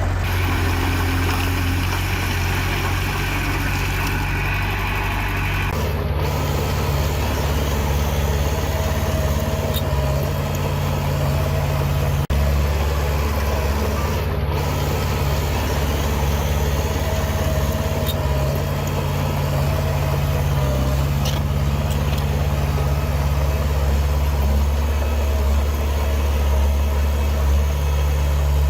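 Heavy diesel engine of earthmoving machinery running steadily with a deep hum. The engine note changes abruptly about six seconds in.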